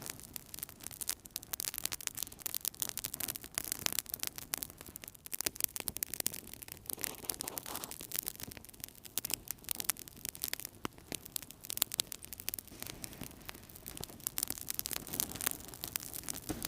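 Wood fire burning in a fireplace: dense, irregular crackles and snaps over a soft hiss of flame.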